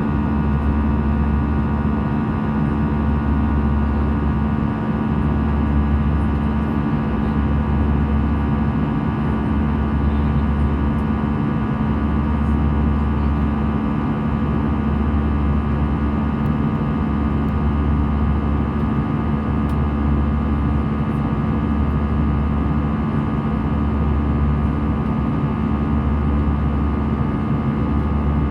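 Airbus A320 cabin noise in flight: a steady drone of jet engines and airflow with a strong low hum. The deepest rumble swells and fades in a slow beat every few seconds.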